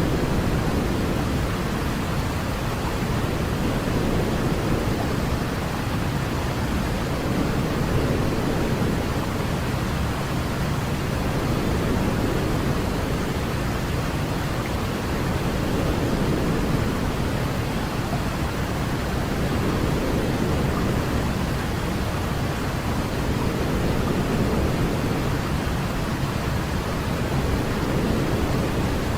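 Baby-sleep white-noise track: a steady, deep hiss weighted toward the low end, swelling and easing gently every few seconds.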